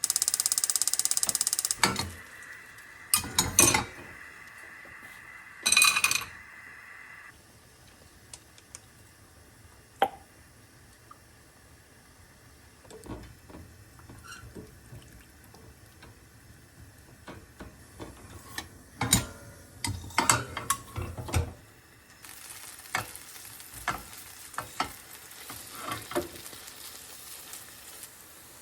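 Kitchen cooking sounds: a loud hiss in the first two seconds, then scattered clinks and knocks of utensils and dishes, with a steady frying sizzle through the last few seconds.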